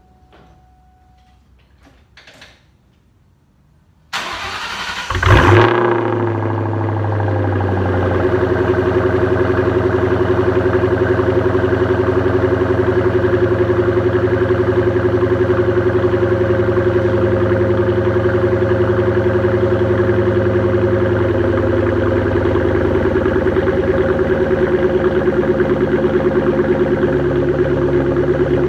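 Ford SVT Cobra V8 with a Borla ATAK exhaust and catted X-pipe cold-started: the starter cranks about four seconds in, the engine catches with a brief flare of revs, then settles into a steady cold idle.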